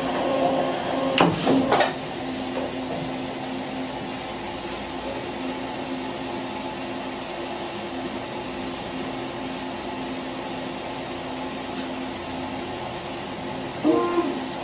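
Daewoo DMV5025-50 vertical machining center working through a tool change: a few sharp metallic clunks between one and two seconds in, then a steady mechanical hum with a held whine as the machine runs on, and a brief louder burst near the end.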